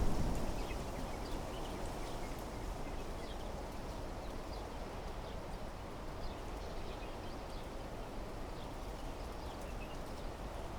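Wind blowing through trees in a steady rush, with scattered short bird chirps. A gust at the start eases off within the first second.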